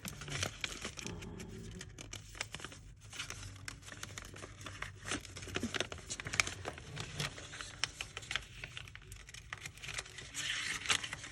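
A sheet of paper being unfolded, folded and creased by hand, with irregular crinkling and crackling.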